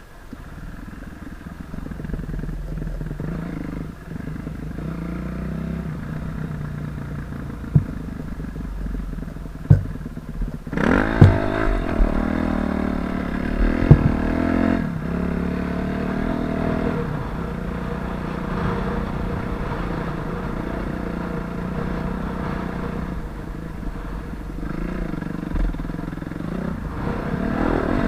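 Suzuki RM-Z250 four-stroke single-cylinder dirt bike engine running under way. About eleven seconds in it revs up and down several times. A few sharp knocks come just before and during the revving.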